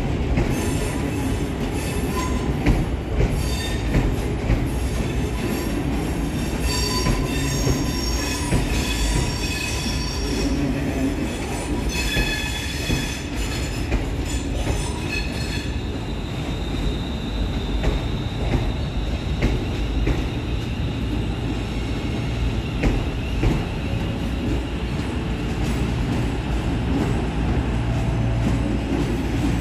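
Train wheels squealing on the curved track as the CrossCountry Class 220 Voyager diesel unit 220024 comes into the station, with many shifting high squeals over the first half. A steady low engine rumble runs underneath, and a steady high whine takes over about halfway through.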